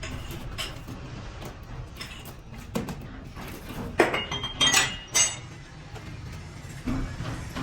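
Metal pieces clinking and clanking together, with a few louder ringing clanks about four to five seconds in, over a steady low rumble.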